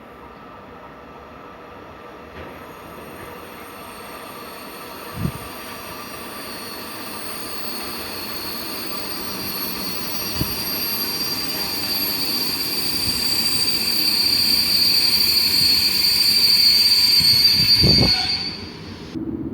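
Passenger train approaching and growing steadily louder, with a high-pitched metallic squeal of steel wheels on the rails and a few dull thumps. The sound cuts off abruptly just before the end.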